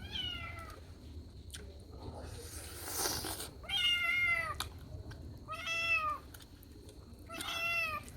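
A cat meowing repeatedly, four short arching meows a second or two apart, with a breathy rustle between the first and second.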